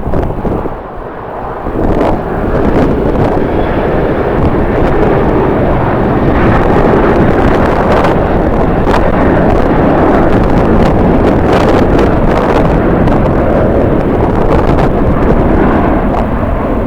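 Strong wind buffeting the microphone: a loud, rumbling roar with frequent sharp pops from gusts, easing briefly about a second in.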